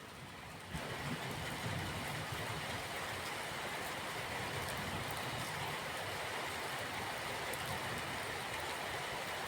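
Steady rain falling, a dense even hiss. It fades in and steps up in level about a second in, then holds steady.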